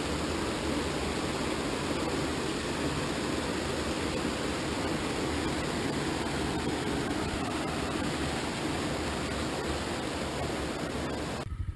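Steady rushing of flowing water, even and unbroken, cutting off suddenly near the end.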